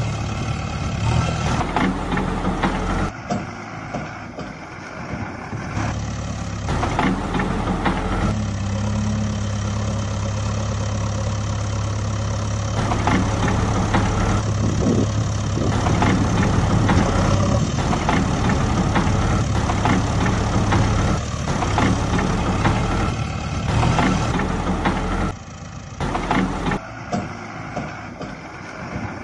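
Heavy vehicle engine running steadily with a low hum, in a few abruptly cut segments.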